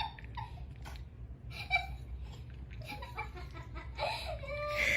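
A person laughing in fits, over a steady low hum.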